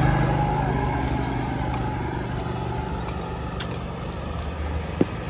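A motor vehicle's engine running close by and then fading steadily as it moves away, with a few sharp clicks near the end.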